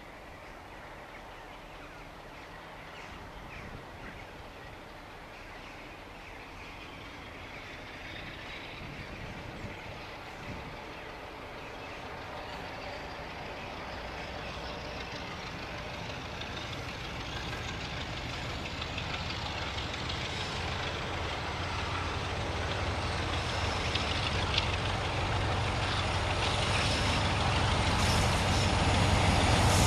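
Preserved diesel locomotive approaching on the line, its engine growing steadily louder, with a deep engine note strongest near the end.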